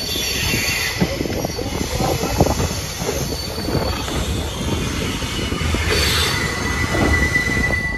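Passenger train running slowly, heard from its open doorway: a steady rumble and rattle of the wheels on the rails. A thin high squeal comes in over the last couple of seconds.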